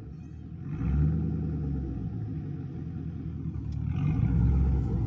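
Muffler-deleted exhaust of a Chevy 6.0 Vortec V8, Y-pipe straight to the tip, running with a low rumble that swells about a second in and again near the end.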